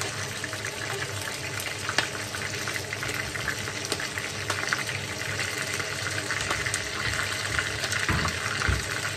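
Chicken feet frying in hot oil in a nonstick pan: a steady sizzle with many small crackles and sharper pops of spattering oil.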